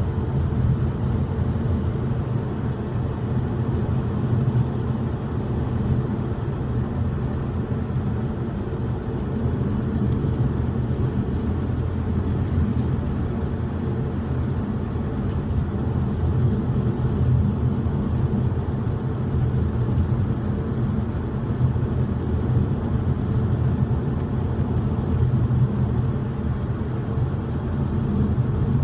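A car driving along a road: a steady low rumble of engine and tyre noise with no sudden events.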